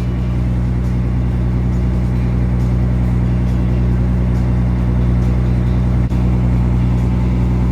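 Sightseeing cruise boat's engine running steadily, a deep even drone.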